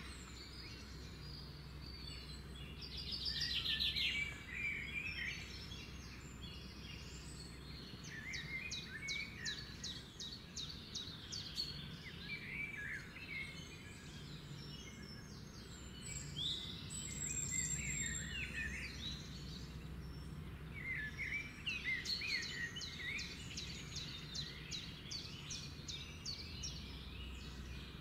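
Several birds singing, a mix of short chirps and rapid trills, over a steady low background hum.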